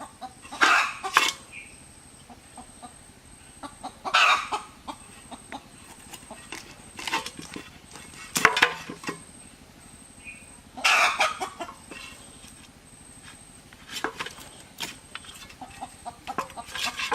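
Chickens clucking and squawking in short loud outbursts every two to three seconds, with scattered clicks and knocks in between.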